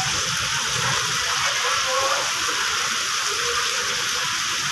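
Heavy rain falling, a steady, even hiss of downpour.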